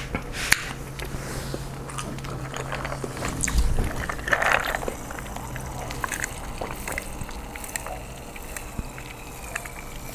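Close-miked eating of a seafood boil: scattered wet clicks and smacks of chewing and handling food in sauce, with a louder crunching, sloshing burst about four seconds in, over a steady low hum.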